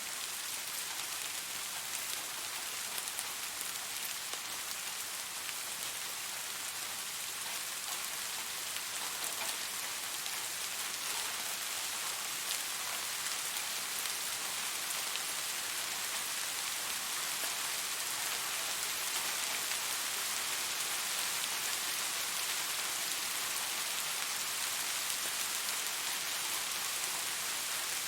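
Steady rain falling on surfaces, an even hiss made up of countless small drop impacts.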